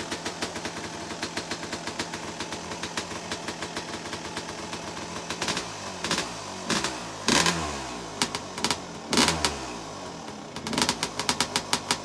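A 2003 Suzuki RM250's single-cylinder two-stroke engine idles with an even popping beat while it warms up from a cold start. In the middle it is revved up and back down a few times, then settles back to a popping idle.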